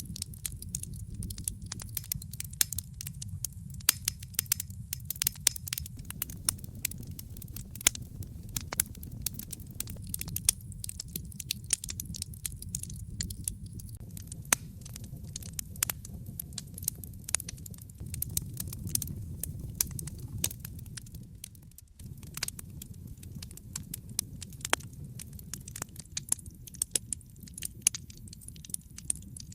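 Wood fire crackling in a fireplace: many sharp irregular pops and snaps over a steady low rumble of the flames. The rumble fades and returns abruptly at about 22 seconds.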